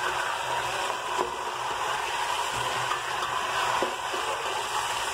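Raw chicken pieces frying in hot oil with a steady sizzle, just added to the pot to brown, with a faint tick or two.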